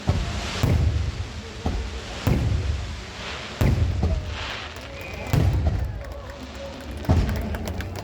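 A run of firework bangs, one about every second and a half, each a heavy boom that dies away quickly.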